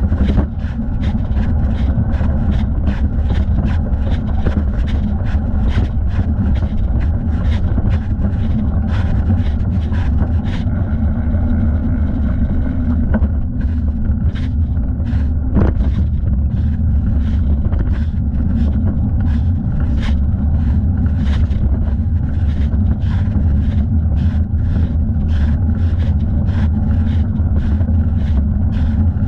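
Bicycle ride heard from a thigh-mounted camera: steady wind and rolling rumble, with a regular rustle-and-knock about twice a second as the leg pedals.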